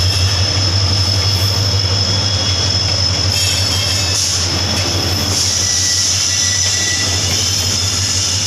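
Passenger train running on the rails: a steady low rumble under an even hiss, with a thin steady high whine of wheels on the track.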